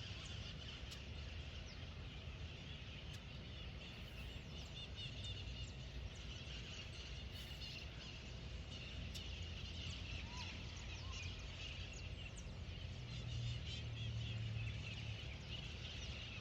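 Many small birds chirping together in a dense, continuous chatter, over a steady low rumble.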